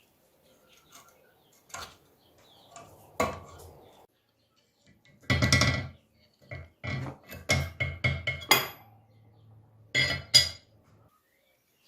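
Metal parts clinking and knocking against each other, with a ringing tone after the strikes. The strikes come singly early on, then as a quick run of louder knocks from about five seconds in.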